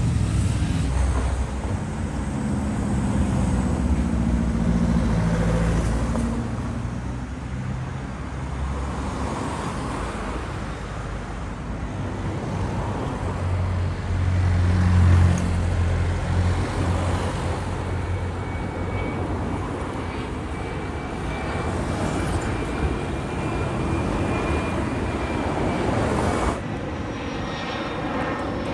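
Aircraft engines rumbling as a plane passes, loudest about halfway through, with a thin high whine joining in the second half. The sound changes abruptly near the end.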